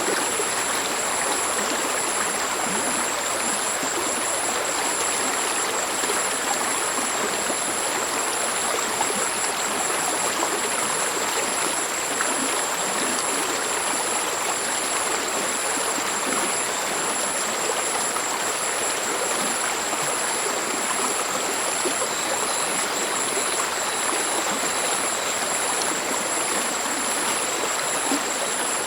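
Mountain stream flowing over rocks, a steady rushing babble of water. Two thin, high-pitched pulsing trills sit steadily above it.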